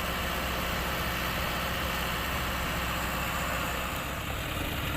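Diesel engine idling steadily, a low even running sound.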